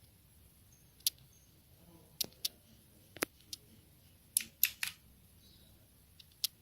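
Keys of a Rexus MX5 Legionare mechanical keyboard with blue switches pressed one at a time: about ten sharp clicks at irregular intervals, some in quick pairs.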